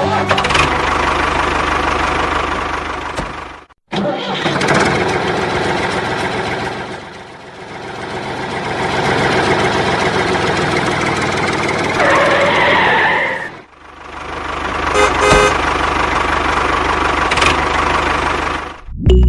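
An engine running steadily in several short clips joined by abrupt cuts, with a brief higher tonal sound about two thirds of the way through.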